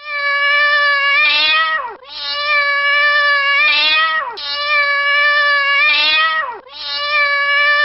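Domestic cat meowing: a series of long, drawn-out meows, each about two seconds, holding a steady pitch and then dropping at the end, the fourth starting near the end.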